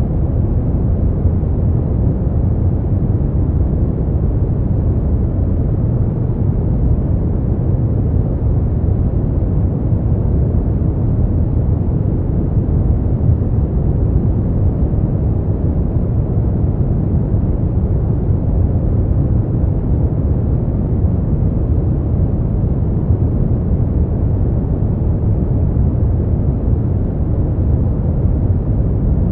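Steady brown noise: a deep, even rushing hiss, strongest in the low end and rolling off toward the top, with no changes or events.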